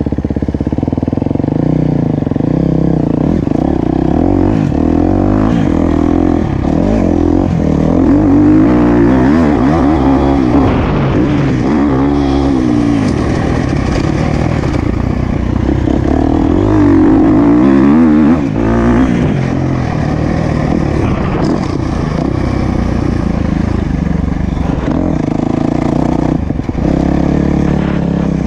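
Motocross bike engine being ridden hard around a dirt track, the revs climbing and dropping over and over as the rider accelerates, shifts and backs off for corners and jumps.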